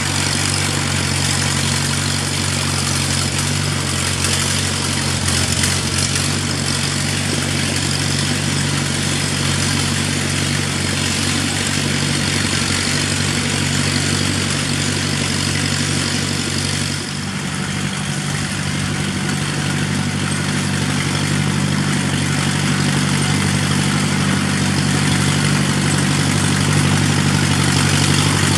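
Engine of a vintage Allis-Chalmers Speed Patrol tractor-grader running steadily. About two-thirds of the way through the level dips briefly, then it runs at a slightly higher pitch, growing gradually louder toward the end.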